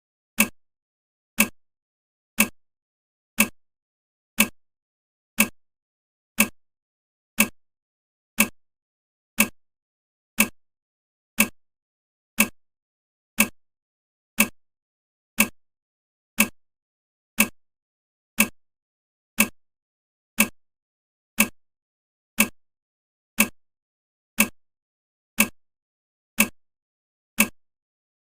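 Countdown timer ticking steadily, one short sharp tick each second.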